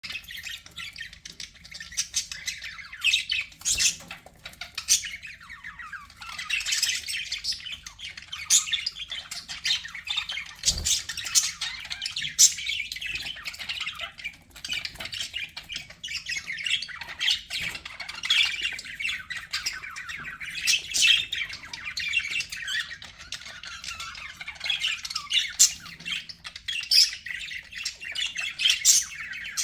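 Budgerigars chattering and warbling without pause, with frequent sharp chirps and squawks.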